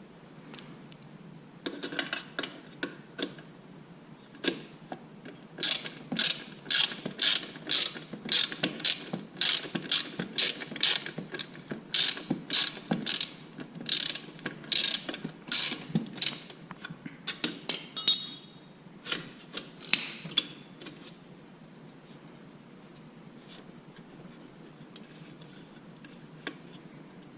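Hand ratchet wrench being worked in short strokes, each stroke a quick run of sharp clicks, about two strokes a second for most of twenty seconds before stopping.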